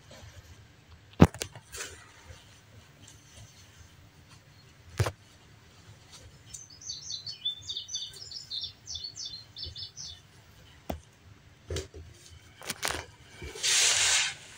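A small bird chirping in a quick run of high notes midway, with scattered sharp clicks or knocks and a short hissing rustle near the end.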